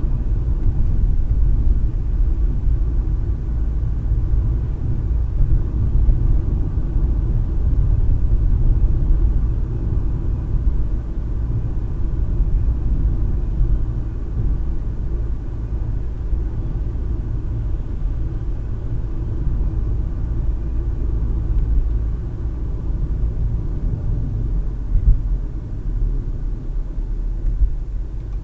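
Steady low rumble of a car driving, tyre and engine noise heard inside the cabin through a dash cam's microphone.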